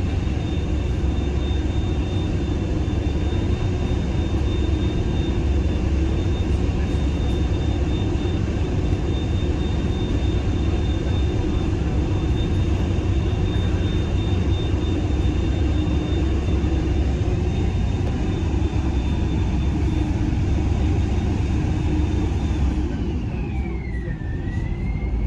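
A HoverTravel passenger hovercraft running, heard from inside the cabin: a steady low drone of engines and fans with a thin high whine over it. Near the end the whine falls in pitch and then settles at a lower note.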